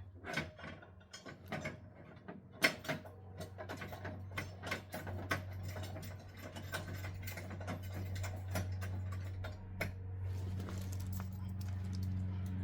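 Ratchet wrench clicking in quick, irregular runs as screws are driven into running-board mounting brackets on a pickup truck. A steady low hum rises from about ten seconds in.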